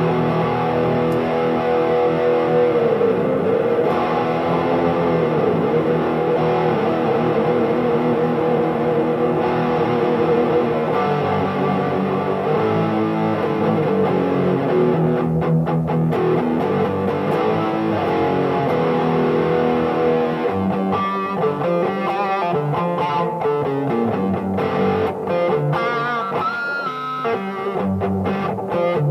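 Electric guitar played with distortion: held, ringing chords with a pitch dip about three seconds in, then quicker picked notes and short chord stabs in the last third.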